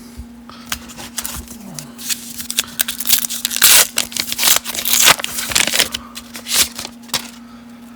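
1990 Upper Deck baseball cards handled by hand, being flipped and slid over one another: a run of quick papery rustles, scrapes and flicks, loudest in the middle, over a steady low hum.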